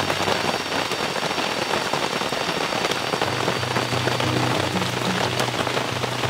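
Steady heavy rain falling, an even rush of countless drops striking a surface.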